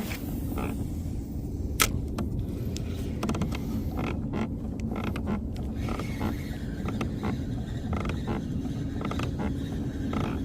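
Irregular creaks and clicks from the kayak and its fishing gear, heard over a steady low rumble.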